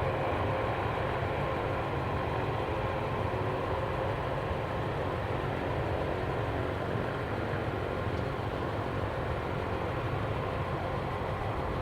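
Jet engines of a Boeing 767 cargo jet running steadily, heard as an even noise with faint steady tones above it and no rise or fall.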